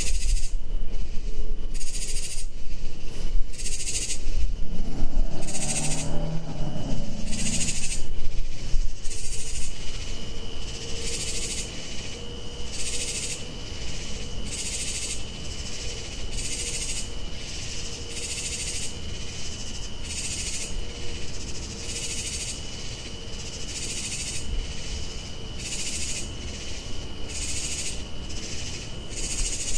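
Night calling: harsh, rasping calls repeat about once a second, answered back and forth. A steady high trill runs under them from about ten seconds in. A low cooing call comes once, about five seconds in.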